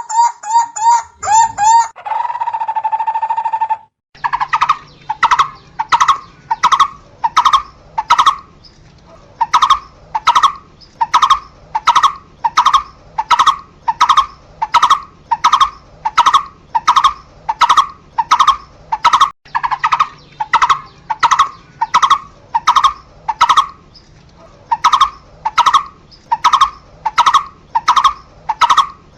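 A barbet calling. In the first few seconds there are quick notes and a trill, and after a brief break comes a long, even series of single notes, a little under two a second, with a couple of short pauses.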